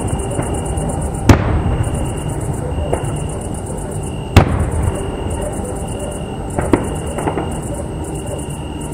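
Fireworks display: shells bursting with two loud sharp bangs, about a second and four seconds in, over a steady rumble, with a few smaller pops near the end.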